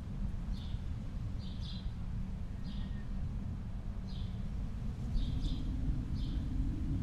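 A bird repeating a short high chirp about once a second, sometimes twice in quick succession, over a steady low rumble of outdoor ambience.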